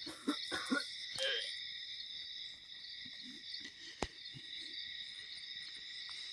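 Steady high chorus of crickets in the night air. There are a few crackles in the first second and one sharp click about four seconds in.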